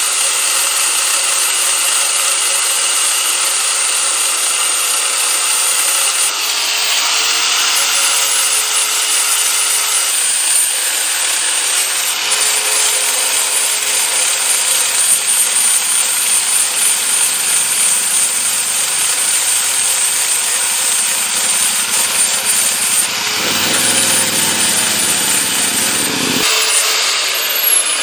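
Angle grinder with an 80-grit sanding disc running against rusty steel, taking rust off, with a steady motor whine under the grinding noise. Near the end it is switched off and winds down with a falling whine.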